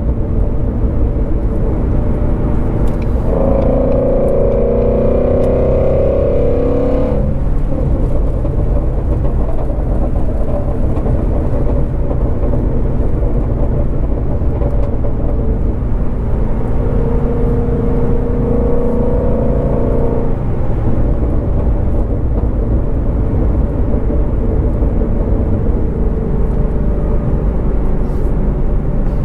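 2019 Shelby GT350R's 5.2-litre flat-plane-crank V8 running under way with a steady low drone. Twice, a few seconds in and again about halfway through, it pulls harder for about four seconds, its note rising slightly, then eases off.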